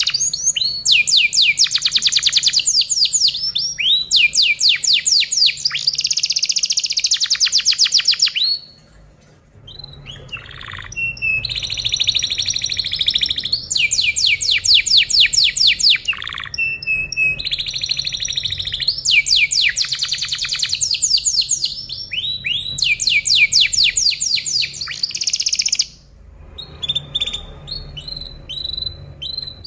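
Canary singing a long song of rapid, high-pitched repeated trills and rolls, in long phrases broken by two short pauses, one about a third of the way in and one near the end.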